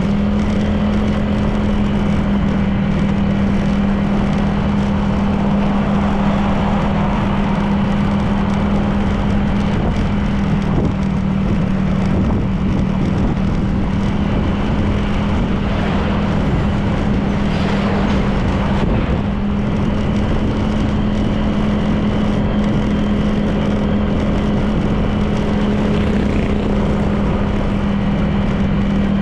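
Honda PCX 160 scooter's single-cylinder engine running at a steady cruising speed, a constant even hum over road and wind noise.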